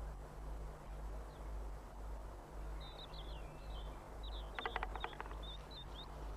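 Tits giving short, high chirping calls over a steady low hum, with a quick run of about eight sharp taps a little past the middle.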